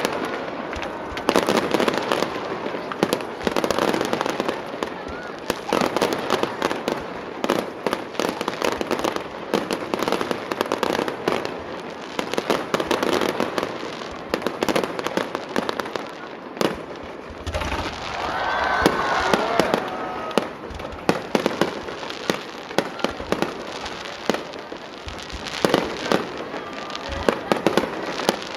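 Fireworks display: a dense, continuous run of sharp bangs and crackling from bursting aerial shells, with a few deeper thumps about two-thirds of the way through.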